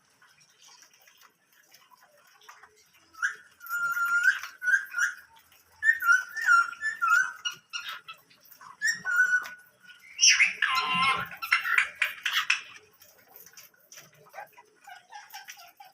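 Pet cage birds calling: a run of short whistled notes, then a louder burst of harsh chattering calls about ten seconds in that lasts a couple of seconds.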